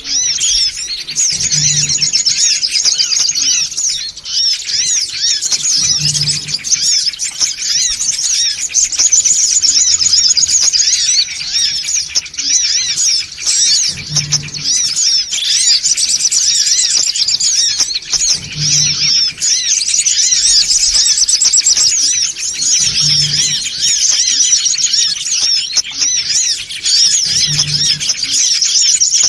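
Male songon sunbird giving a busy, unbroken stream of rapid high-pitched chirps and twitters, the noisy lure call used to draw songon in. A faint low thud recurs about every four and a half seconds beneath the calls.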